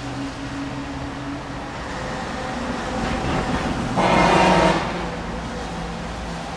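Vehicle engine running with a steady low hum under a noisy background; about four seconds in a horn sounds once, loud, for just under a second.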